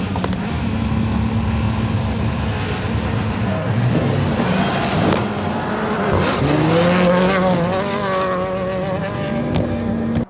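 Rally car engine at high revs, its pitch climbing sharply about six seconds in as the car accelerates hard. The sound cuts off suddenly at the end.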